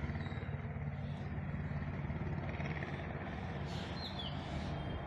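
Steady low rumble of outdoor background noise, with a few faint bird chirps about four seconds in.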